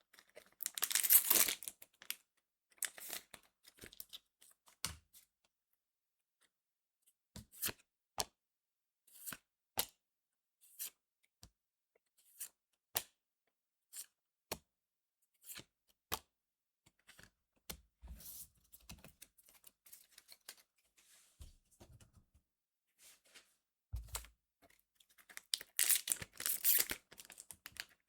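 Foil trading-card booster pack wrappers being torn open, once about a second in and again near the end, with scattered light clicks and taps from the cards being handled in between.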